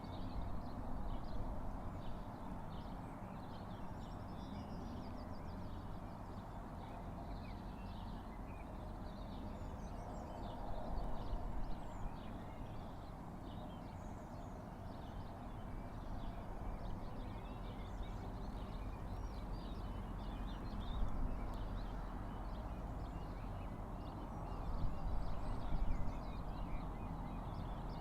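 Small birds chirping and twittering, many short calls all through, over a steady low rumble.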